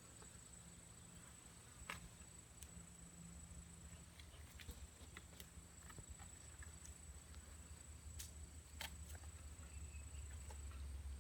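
Near silence: faint scattered clicks and ticks over a steady thin high-pitched tone and a low rumble.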